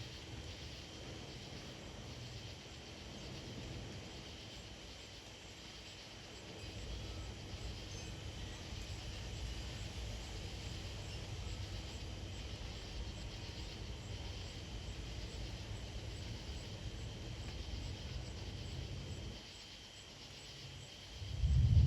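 Wind buffeting the microphone in a low, uneven rumble that picks up about a third of the way in, eases briefly and then surges near the end. Under it, a steady high chorus of insects.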